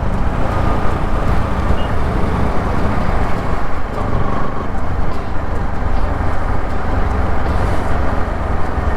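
Steady road noise from a moving Bajaj Pulsar NS200 motorcycle, with heavy wind rumble on the microphone covering the engine and the surrounding traffic.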